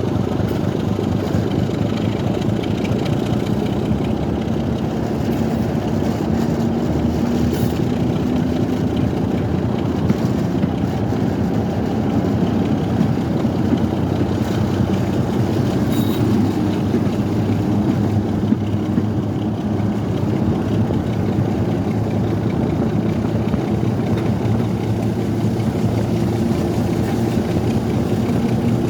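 Train running with a steady engine drone.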